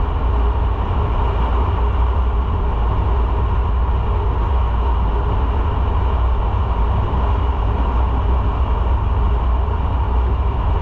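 Motorcycle running steadily while riding, its engine drone under a constant rush of wind and road noise.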